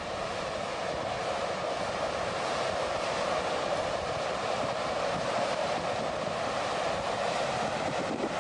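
Floodwater rushing in a steady, unbroken wash of noise.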